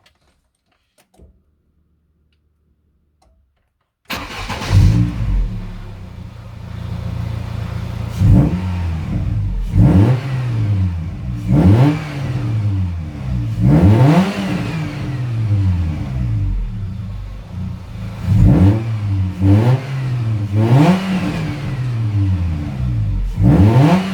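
Exhaust of a VAZ-2107 (Lada) with a 16-valve engine. After about four seconds of near silence the engine comes in suddenly, then idles and is blipped about a dozen times, each rev rising quickly and dropping back to idle.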